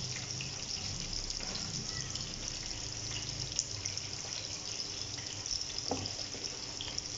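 Chopped onions and green peppers sizzling in oil in a nonstick wok as they are stirred with a silicone spatula: a steady hiss with a few faint spatula taps.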